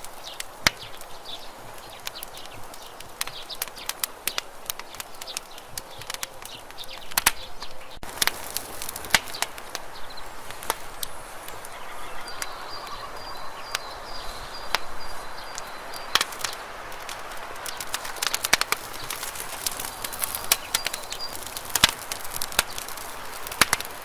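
Campfire of burning wood crackling and popping, with irregular sharp snaps over a soft steady hiss; the pops come thicker after the first third.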